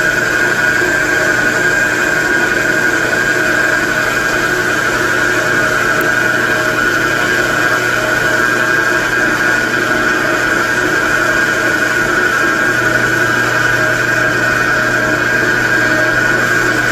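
Metal lathe running steadily while turning a steel stud, with a steady high whine over a machine hum; the low hum grows stronger near the end.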